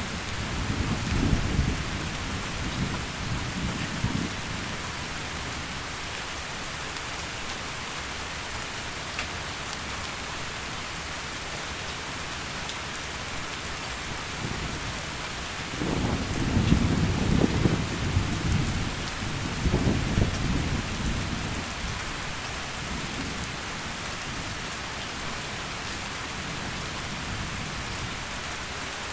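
Heavy rain falling in a steady hiss, with low rolls of thunder rumbling over it at the start and again about halfway through.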